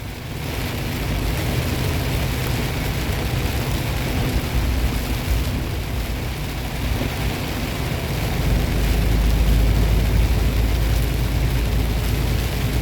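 Semi-truck cab interior on the highway in rain: steady engine drone with tyre and road noise. A deeper low rumble grows louder about two-thirds of the way through.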